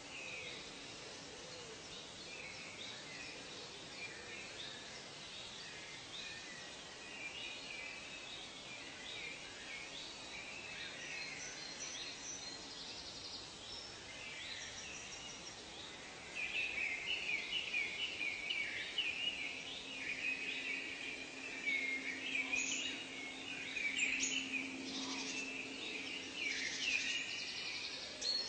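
Natural ambience of many birds chirping and calling together over a faint background hiss. The calls become busier and louder about halfway through.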